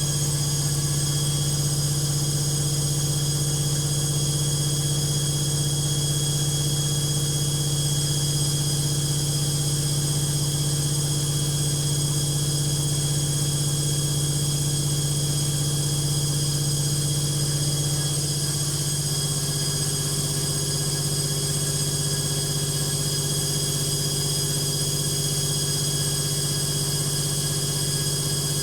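Logik washing machine on its final spin with an unbalanced load: a steady, loud motor-and-drum hum with a constant whine. About 18 s in, the tone shifts slightly and it gets a little quieter.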